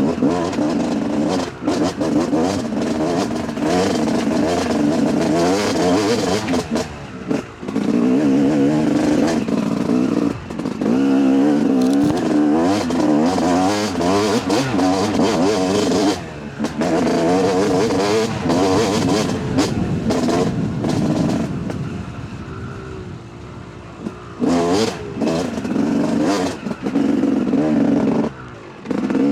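Yamaha YZ 250 two-stroke dirt bike engine revving up and down under a constantly changing throttle while being ridden. Brief off-throttle dips break up the sound, with a longer, quieter stretch about two-thirds of the way through.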